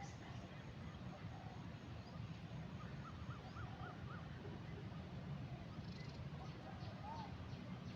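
Birds calling faintly: a quick run of about five short notes about three seconds in and a single call near the end, over a steady low background rumble.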